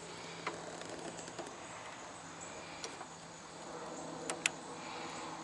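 Quiet background with a faint steady hum and a few light clicks; the two sharpest clicks come close together near the end.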